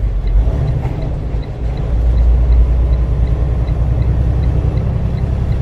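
Freightliner truck's diesel engine running in neutral while the truck rolls, heard from inside the cab, with the revs raised about two seconds in. The revving in neutral is meant to spin the cooling fan faster on an overheating engine, which the driver suspects has a failing water pump. A faint regular ticking, about three to four a second, runs underneath.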